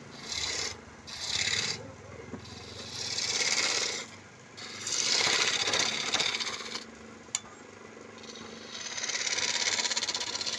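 A tool scraping against wood turning on a wood lathe, in about five passes of half a second to two seconds each, with a single sharp click about seven seconds in.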